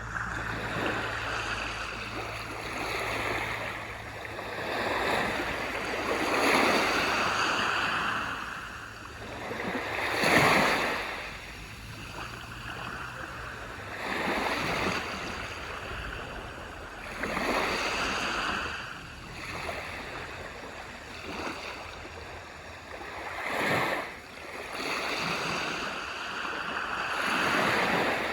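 Small waves breaking and washing up a beach, a swell of surf every few seconds, the biggest about ten seconds in.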